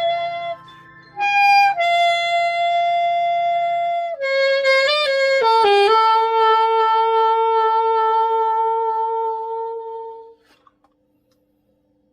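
Sorioul, a Korean fipple wind instrument, playing the closing phrase of a melody: held notes, a short falling run of notes, then one long final note that fades out about ten seconds in. A soft backing track drops out about four seconds in.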